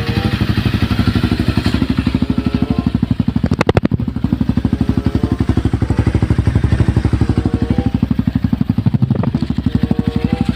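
Honda CRF250L single-cylinder engine running steadily at low revs through an aftermarket full-system exhaust, with an even exhaust beat and no revving.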